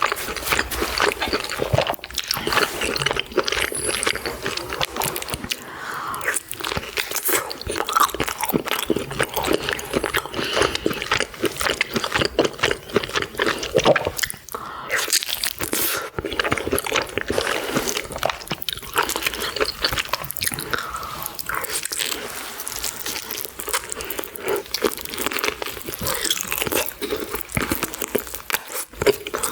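Close-miked eating: a person biting and chewing food, a steady stream of small crunches and mouth clicks.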